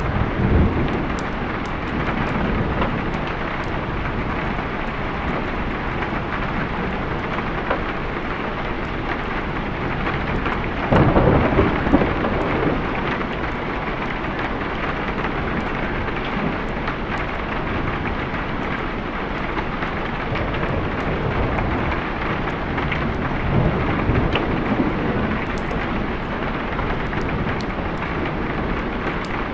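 Steady rain with rumbles of thunder. The loudest thunder swell comes about a third of the way in, with fainter ones near the start and a little past the three-quarter mark.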